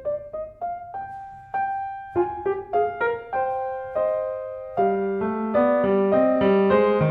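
Solo piano music: a slow, gentle melody of single notes that thickens into fuller chords about five seconds in.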